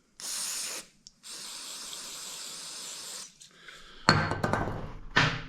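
An aerosol can spraying cleaner, likely starting fluid, onto the parts: a short burst, then a steady spray of about two seconds. Near the end comes some louder handling and rubbing of the parts.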